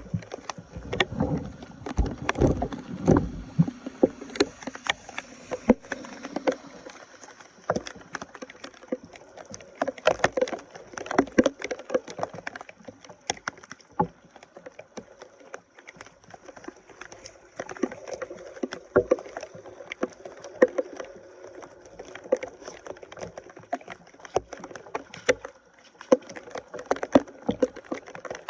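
Water splashing and sloshing with many irregular knocks and clatters as debris is worked loose from a clogged drain, heaviest in the first few seconds.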